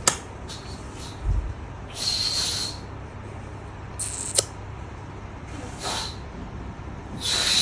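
A baby making short breathy hissing sounds, four of them at uneven gaps of about two seconds, the last one the longest.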